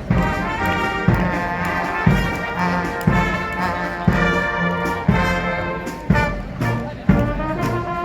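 Brass music, with trumpets and trombones holding chords over a low drum beat about once a second.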